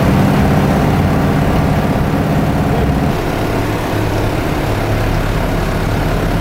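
A vehicle's engine running steadily; its note drops lower about three seconds in.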